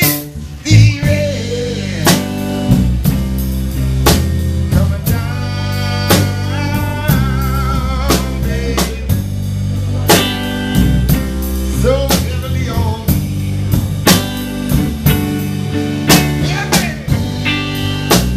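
Live blues trio playing: drum kit keeping a steady beat under electric guitar and bass, with the guitar's notes bending in pitch.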